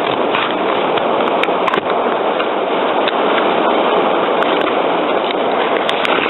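Steady heavy rain on a vehicle's roof, heard from inside, with scattered small ticks of individual drops.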